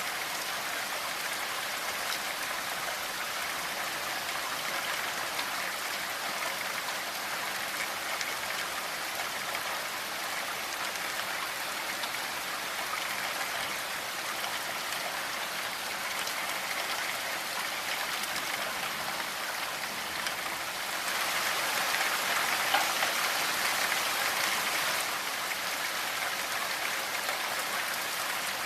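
Steady rainfall, a dense, even patter of drops, swelling louder for a few seconds about three-quarters of the way through.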